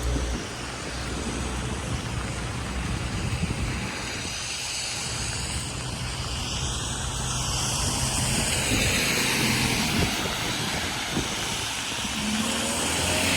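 Steady engine noise of passing vehicles, swelling and growing louder toward the end.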